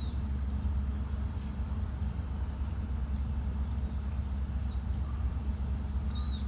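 A bird giving short, high chirps that slide downward, four times, over a steady low background rumble.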